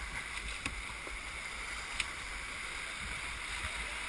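Steady rush of whitewater river rapids around a kayak, with a few brief sharp knocks or splashes, the loudest about two seconds in.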